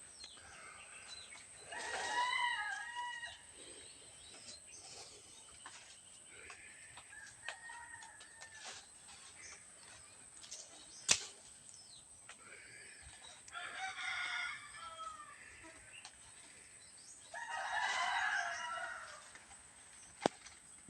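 Roosters crowing, about four crows a few seconds apart, with a couple of sharp clicks between them.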